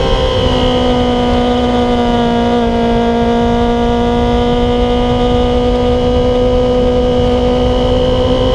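Yamaha YZF-R6's inline-four engine through an MGP Growler exhaust, heard from on board, holding steady revs at part throttle while leaned over through a long corner, with wind rushing over the microphone.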